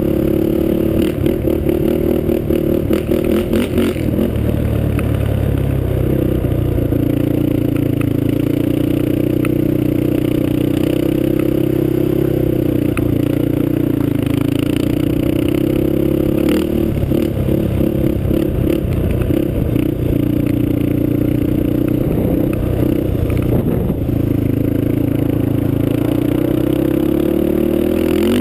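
Honda TRX450R quad's single-cylinder four-stroke engine, a Janssen-built motor breathing through a Motoworks exhaust, running at a fairly steady speed, its pitch rising and falling gently. Clattering and scraping knocks come through at times, mostly in the first few seconds and again about two-thirds of the way in.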